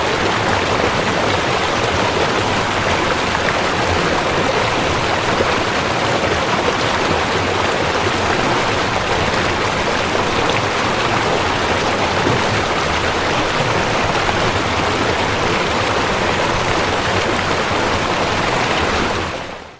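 Rushing river water, a steady, even roar that fades out at the very end.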